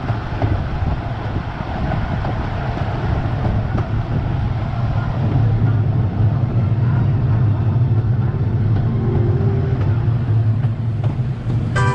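Casey Jr. Circus Train running along its narrow-gauge track: a steady low rumble of the wheels on the rails, with wind noise.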